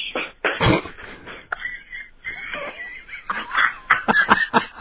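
A person's voice making short, irregular sounds without clear words.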